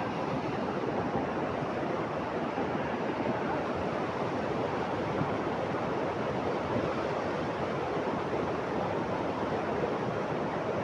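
Steady rushing of water, an even roar with no breaks.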